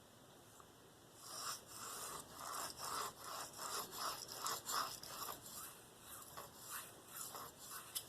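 Steel knife blade stroked by hand across a Venev 7/5 (about 2,500 grit) diamond stone: a quick series of short rasping strokes, about three a second, starting about a second in.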